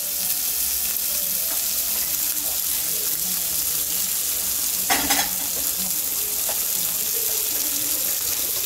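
Slices of ham sizzling steadily as they fry in oil in a rectangular egg-roll pan, with a short knock about five seconds in.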